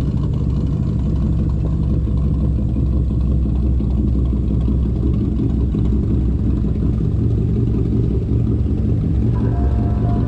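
A vehicle engine running with a steady, deep low rumble. Music fades in near the end.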